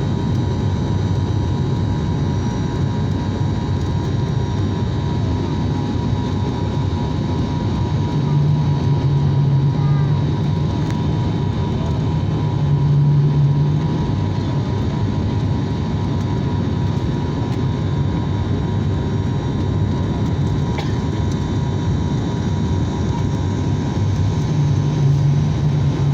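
ATR 72-600 turboprop airliner's engines and propellers running, a steady drone with a low propeller hum that swells several times.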